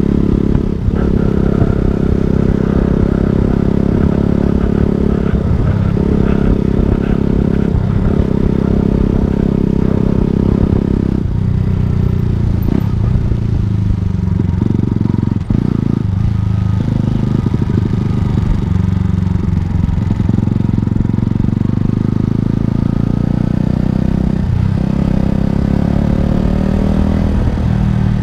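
Motorcycle engine running steadily under load, its note dipping briefly and changing several times along the way.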